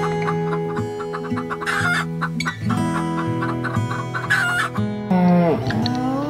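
Chickens clucking, with two short harsh squawks about two and four seconds in, over background guitar music with a steady beat. Near the end a loud long animal call dips and rises in pitch.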